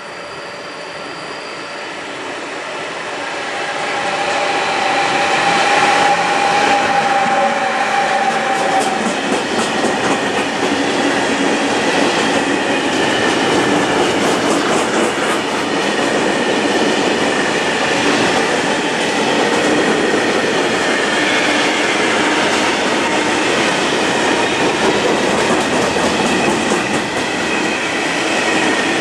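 Long freight train of covered hopper wagons passing close by. It grows louder over the first few seconds as the locomotive nears, then settles into a steady rumble of wheels with clickety-clack over the rail joints and a thin high wheel squeal at times.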